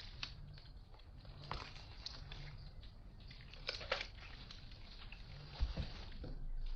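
Scattered light clicks and crunchy handling sounds of food being worked, with one dull thump about five and a half seconds in.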